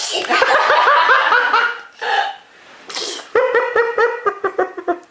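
Small child laughing in two runs of quick, high-pitched rhythmic bursts, each run opening with a short hissing burst.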